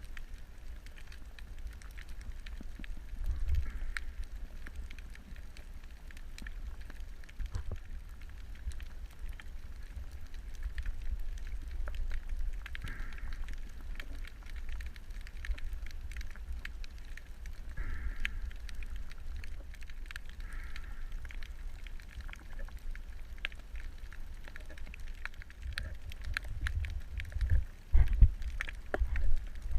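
Underwater ambience picked up by a camera in its housing: a low rumble of water movement with scattered crackling clicks, a few brief hissy swells, and heavier low thumps near the end.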